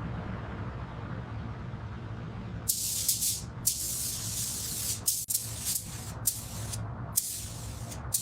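Compressed air hissing from a nozzle in about four bursts of half a second to a second and a half each, starting a few seconds in, over a steady low hum.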